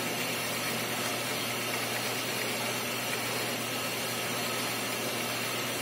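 Steady machine hum with an even hiss over it, unchanging throughout, with no distinct knocks or scraping.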